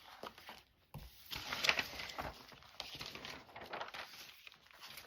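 Paper and craft materials being handled on a tabletop: rustling with scattered light taps and knocks, the loudest about a second and a half in.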